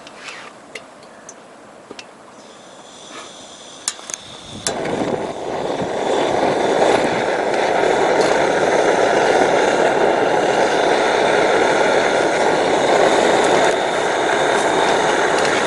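Portable camping gas stove being lit: gas hissing as the valve opens, a few sharp igniter clicks about four seconds in, then the burner catches and runs with a loud, steady rushing sound.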